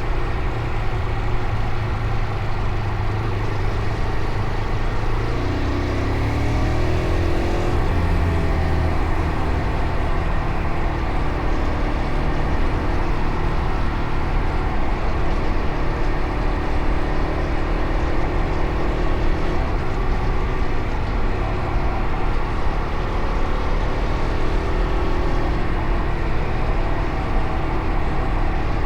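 Fantic Caballero Rally 500's single-cylinder engine running while the motorcycle is ridden, its pitch climbing under acceleration about six seconds in and then holding fairly steady, over a constant rush of wind and road noise.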